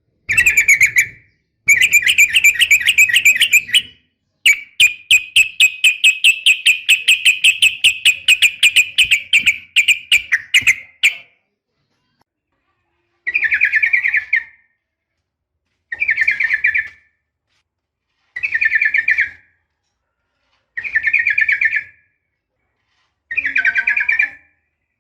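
Yellow-vented bulbul (trucukan) calling, offered as a female calling a male: a long, rapid chattering trill for the first ten seconds or so, then five short bursts of chatter a couple of seconds apart.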